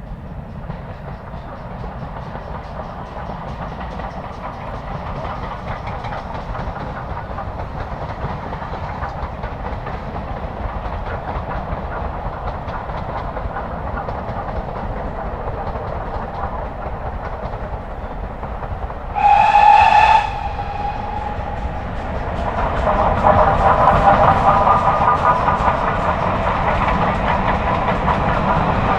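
Steam train running on the rails, its steady noise fading in at the start. About two-thirds through comes one short, loud whistle blast. Then the train grows louder, with a steady multi-note tone over the rail noise.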